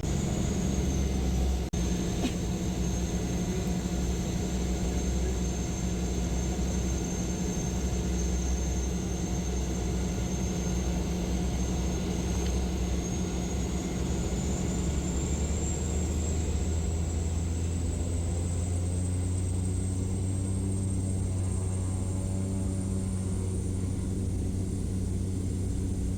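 Small propeller airplane's engine droning steadily as heard inside the cabin, with a thin high whine that slowly rises in pitch after the middle.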